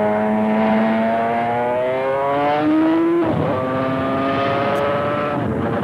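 Two-stroke 750 cc racing motorcycle engine at full throttle, its pitch climbing for about three seconds, then a quick gear change and pulling on at high revs before dying away near the end.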